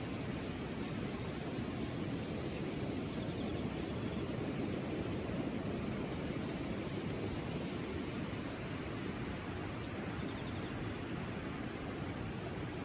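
Insects trilling continuously in a thin, steady high-pitched tone over a steady low rushing noise.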